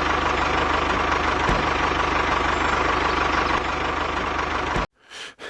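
A vehicle engine running steadily with a dense, rattling drone, which cuts off abruptly near the end, followed by a couple of faint short sounds.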